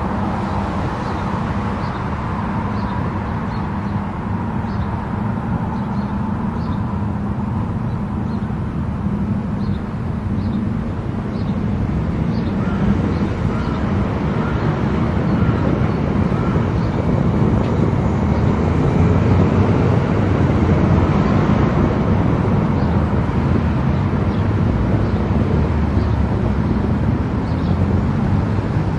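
Steady road and engine noise of a car driving on a highway: a continuous low rumble of tyres and engine, getting a little louder partway through, with a faint regular ticking in the first half.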